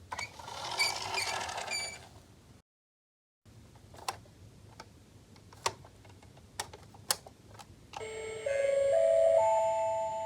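A short rattling noise, then a gap, then scattered light plastic clicks. About eight seconds in, an electronic chime plays a few held notes stepping upward in pitch, like a Japanese station platform chime from a toy station set.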